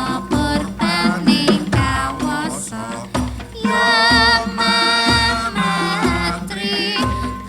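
Javanese gamelan ensemble playing, with hand-drum strokes and a voice singing long, wavering notes over the metal percussion, strongest from about halfway through.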